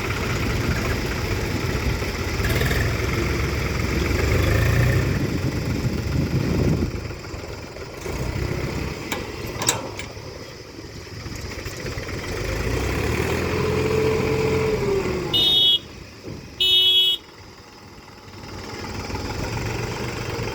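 Tractor diesel engines running, heavy for about the first seven seconds and then quieter, with a brief engine note rising and falling near the middle. Two short horn honks sound about 15 and 17 seconds in.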